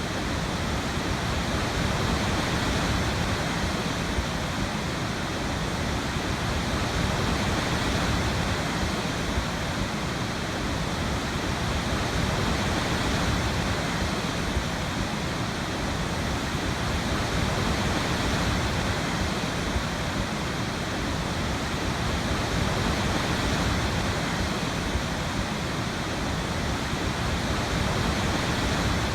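Waterfall: a steady, unbroken rush of falling water, strongest low down, with no changes.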